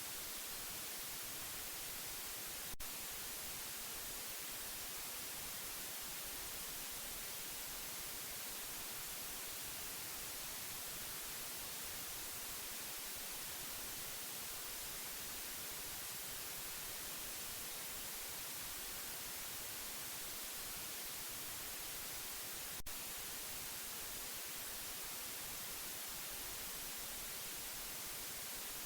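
Steady white noise: a constant, even hiss, strongest in the high frequencies. Two faint clicks cut through it, one near the start and one near the end.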